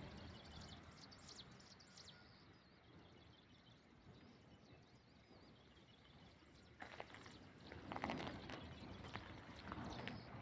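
Faint outdoor ambience with small birds chirping softly now and then, and a few soft knocks and rustles from about seven seconds in.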